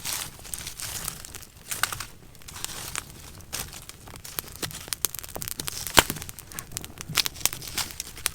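Close-up crinkling and rustling with many scattered sharp clicks, one louder click about six seconds in.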